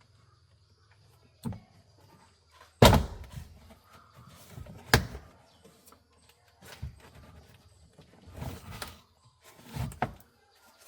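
Several sharp clunks and thuds from work on a car being taken apart, the loudest about three seconds in and another about five seconds in, with quieter knocks and rattling between.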